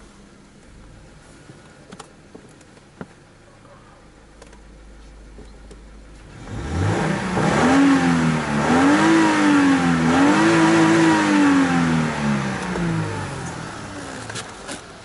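Subaru flat-four engine idling quietly, then revved about six seconds in: the pitch rises and falls twice before dropping back to idle.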